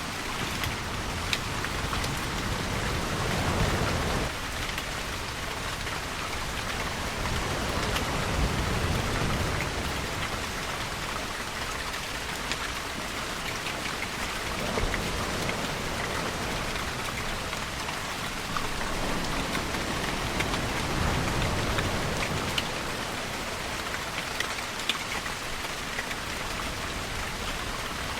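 Steady rain falling on surfaces, with scattered sharp drop ticks. Every five or six seconds a low swell rises and falls beneath it, such as a wave rolling in or distant thunder.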